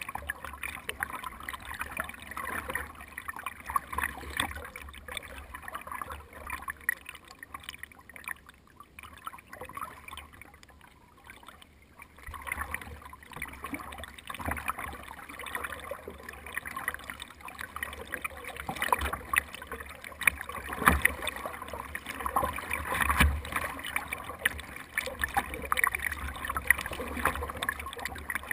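Water splashing and gurgling against the hull of a small paddled boat, likely a kayak, in a steady run of small splashes. It eases off for a few seconds about a third of the way in, then grows busier again.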